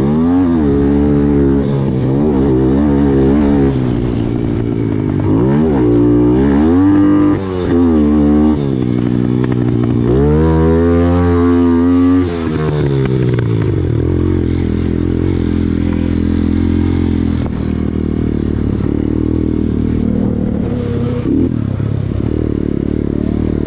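Pit bike engine revving, its pitch climbing and dropping again and again as it is ridden through the gears. After about 13 seconds it settles into a steadier, lower drone.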